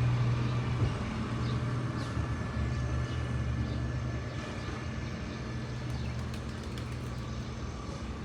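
A steady low mechanical hum, with faint short high chirps now and then.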